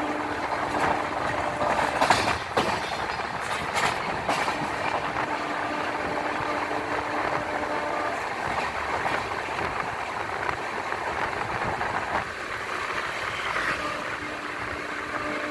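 Express passenger train passing at speed without stopping, its wheels rumbling and clattering over the rails in a steady rush, with a few sharp clacks about two to four seconds in. The rush eases slightly about twelve seconds in.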